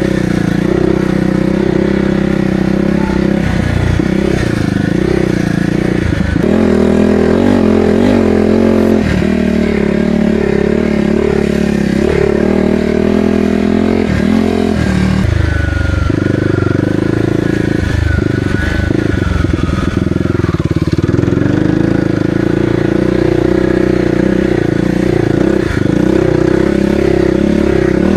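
2022 Kawasaki KLX300R's single-cylinder four-stroke engine running through an aftermarket Barker's exhaust while being ridden. The revs rise and fall repeatedly through the first half as the throttle is worked, then hold steadier.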